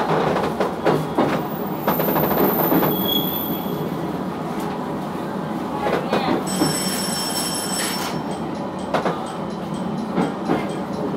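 A 719-series electric train rolls slowly into a station over points, its wheels clicking over rail joints. There is a brief high squeal about two seconds in, and a longer ringing wheel squeal of several high tones from about six and a half to eight seconds in.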